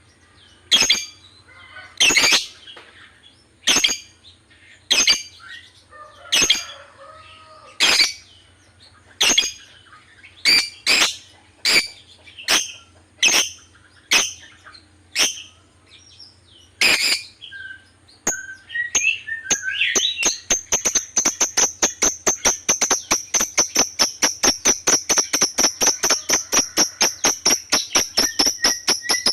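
Lovebird calling: sharp, shrill single chirps about once every second or so, then from about 19 seconds in a fast, unbroken run of chirps at about five a second, the rapid chattering song that lovebird keepers call ngekek.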